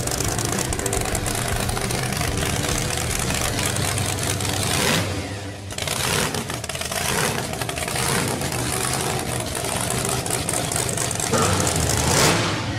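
Supercharged 547-cubic-inch Boss 9 V8 with a 14-71 blower on alcohol injection, in a 1970 Ford Torino pro street car, running loud and revving. The engine sound drops off briefly about five seconds in, then picks up again.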